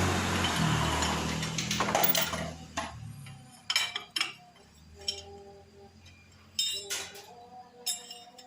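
A loud steady hiss that dies away about three seconds in, followed by a series of sharp metal clinks, each leaving a short ringing tone, as motorcycle exhaust parts are handled.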